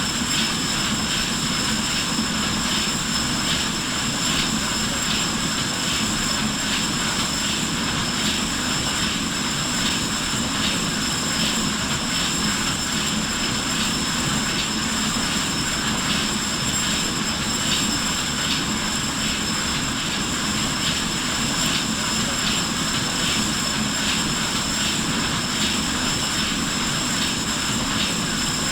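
A ship's machinery runs steadily, with a regular beat and a high, steady whine.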